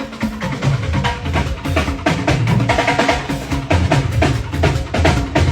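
Live Fuji band percussion playing a busy, driving rhythm: drums and sharp wood-block-like hits over a deep bass drum, with no singing.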